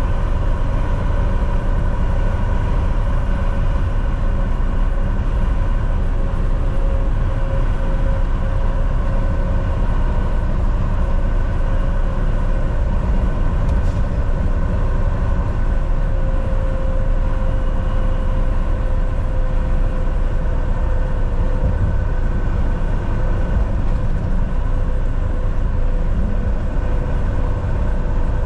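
Volvo VNL 760 semi truck cruising at highway speed: a steady heavy rumble of engine and tyre noise, with a constant drivetrain whine held over it.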